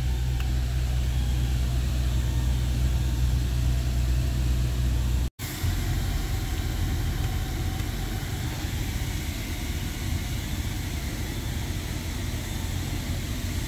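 BMW 740i's turbocharged inline-six idling, heard from inside the cabin as a steady low hum. About five seconds in, the sound cuts out for an instant and comes back as a rougher, noisier low rumble with a hiss over it.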